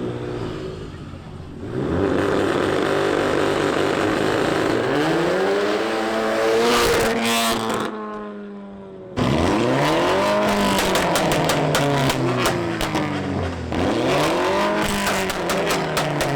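A high-performance car engine revving hard, its pitch climbing and falling again several times, with sharp crackles over it. It drops away briefly about halfway through, then comes back loud with more rev sweeps.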